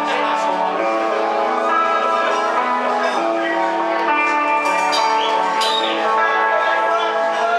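A guitar playing the opening of a rock song live, sustained chords changing about every second.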